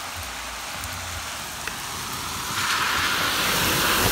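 Steady hiss of water, growing louder about two-thirds of the way in.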